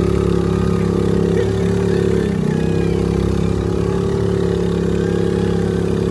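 Small motor of a water bumper boat running steadily, with a brief shift in pitch a little after two seconds in.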